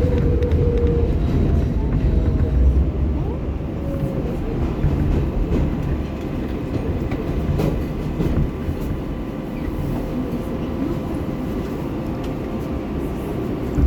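Inside an R188 subway car on the 7 line: the low rumble of the train running into a station stop, with a faint, slightly falling motor whine in the first few seconds and a few clicks. The noise then eases to a steadier rumble as the car stands.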